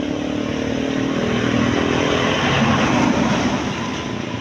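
A truck driving past close by: its engine and road noise grow louder to a peak about three seconds in, then begin to fade.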